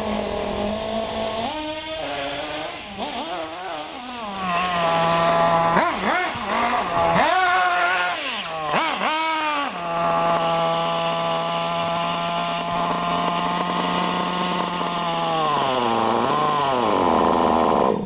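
Thunder Tiger RC car engine revving up and down several times with a buzzing note, then holding a steady high rev before the pitch falls away near the end.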